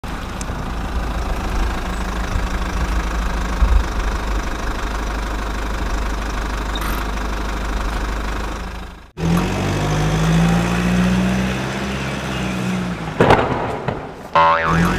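An engine running steadily. It cuts off suddenly about nine seconds in and gives way to a second steady engine drone with a clear even pitch. A short wavering, siren-like tone comes near the end.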